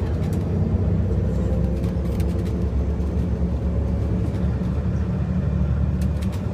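A steady low engine rumble with a constant hum that neither rises nor falls.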